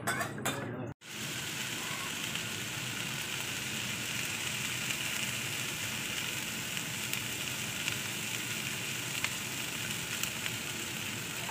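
A spoon knocks and scrapes against a metal pot for about a second, then after an abrupt cut comes a steady sizzle of basmati rice frying in hot oil with chickpeas and onion.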